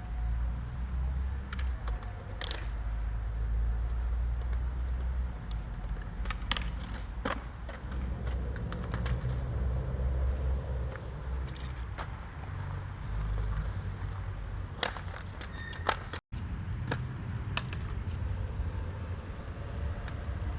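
Busy city street ambience: a steady low traffic rumble with scattered sharp clacks and knocks on top, and a momentary dropout about three quarters of the way through.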